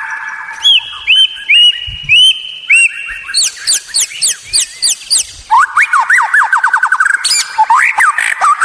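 White-rumped shama (murai batu) song: loud, varied whistled phrases, first a few repeated rising chirps, then from about a third of the way in rapid strings of rising notes and a fast trill.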